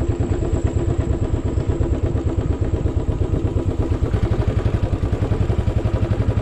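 Royal Enfield motorcycle engine running with a steady, rapid exhaust beat.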